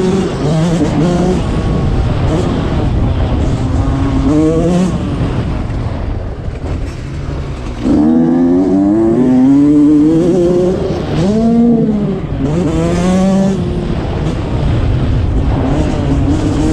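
Dirt bike engines revving and passing, their pitch rising and falling again and again as the throttle is worked.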